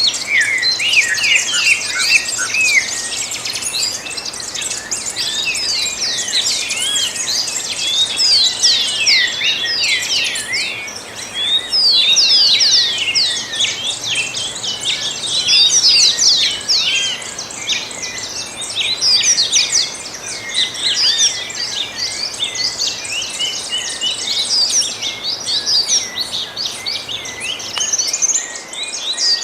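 A dawn chorus of many songbirds singing at once: dense, overlapping quick chirps and whistled sweeps, high-pitched and continuous, over a faint steady hiss.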